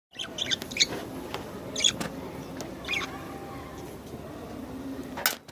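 Small birds chirping in short scattered bursts of high chirps over a steady low background hum.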